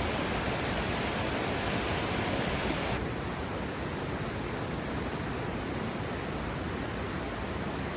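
A steady hiss, with no distinct events, that drops slightly in level and loses some of its top end abruptly about three seconds in.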